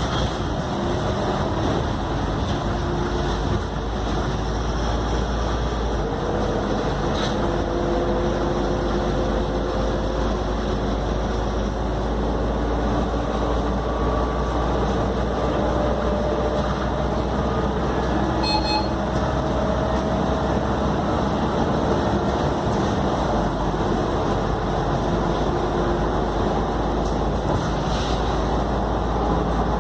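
Scania K310UD double-decker bus running in service, a steady mechanical drone with engine and transmission whine that rises and falls in pitch again and again as the bus speeds up and slows down.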